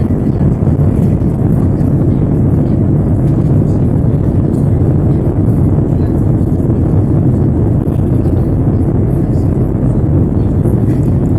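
Airbus A321's jet engines at takeoff power, heard from inside the cabin as a loud, steady low rumble.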